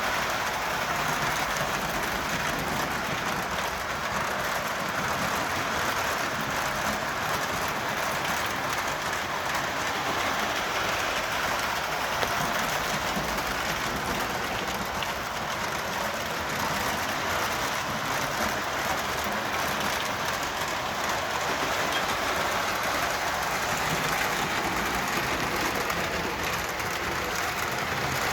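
Lionel Conrail Rectifier model electric locomotive running steadily around the track pulling a train of freight cars: the whir of its motor and the rumble of metal wheels rolling on the rails.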